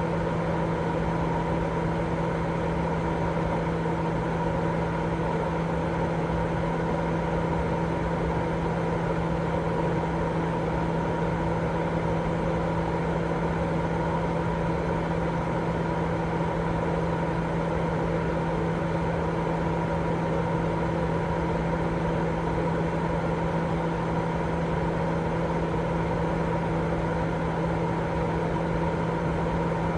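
Continuous baby sleep-aid white noise: an even, unbroken hiss weighted toward the low and middle range rather than bright, with a steady hum of a few fixed tones running through it.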